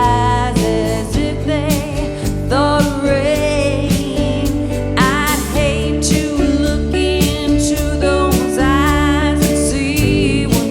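A cover band playing a song: a singer's wavering, held vocal lines over a bed of guitar, bass and drums.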